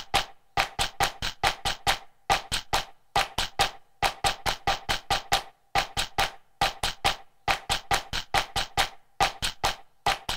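Rhythmic percussion of sharp, pitched wood-block-like clicks, played in quick groups of two to four with short pauses between them.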